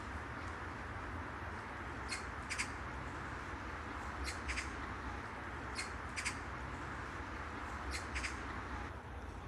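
A bird calling in short, sharp paired notes, four pairs about a second and a half to two seconds apart, over the steady hum of park ambience.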